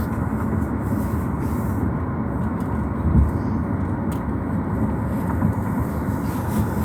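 Steady low rumble of road and engine noise inside a moving car's cabin, with a small thump about three seconds in.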